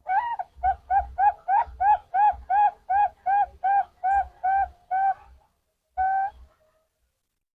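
Zebra dove (perkutut) cooing: a higher opening note, then a rapid run of about fourteen short, even coos at roughly three a second, and after a short pause one longer closing note.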